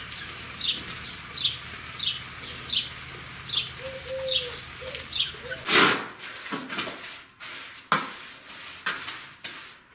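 A small bird chirping over and over, one short high chirp about every three quarters of a second. About six seconds in this gives way to a few loud scrapes and knocks of a tool working plaster mortar in a bucket.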